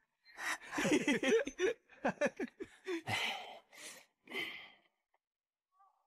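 A person's voice for about four and a half seconds, then silence.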